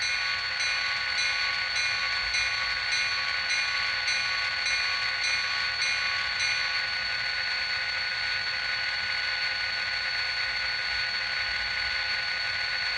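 Diesel locomotive sounds from an N-scale model's ESU LokSound sound decoder, played through a tiny speaker: a steady engine hum with a short tone repeated about three times a second that stops a little past halfway.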